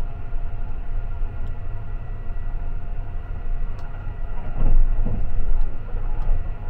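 Sunrise Express sleeper train running, heard from inside its compartment: a steady low rumble with a faint constant hum, swelling louder for about a second around the middle.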